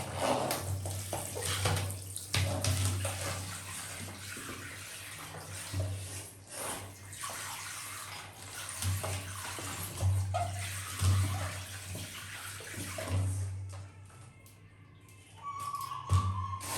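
Water splashing and running, with scattered knocks. A steady tone comes in near the end.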